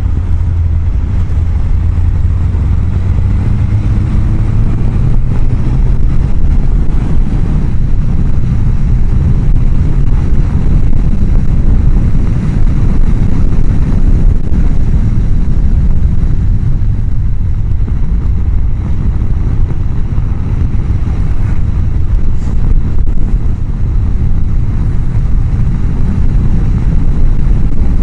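Heavy wind rush on a helmet microphone mounted behind the chin-bar air vent, over a Honda CBR1000F's inline-four engine at riding speed. The engine note rises a few seconds in.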